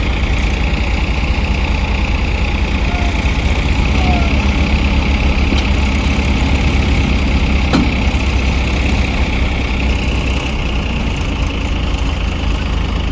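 Tractor engine running steadily, with a deep, even rumble.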